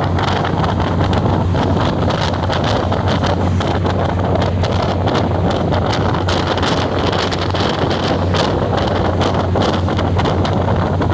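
Train running noise: a steady low hum with irregular rattling and clicking, and wind buffeting the microphone throughout.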